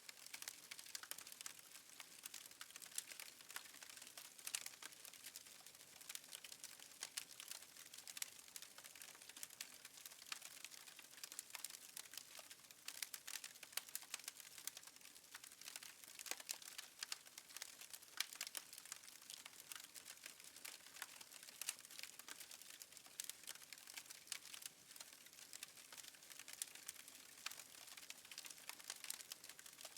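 Faint wood fire crackling: a continuous stream of small irregular pops and snaps over a soft hiss.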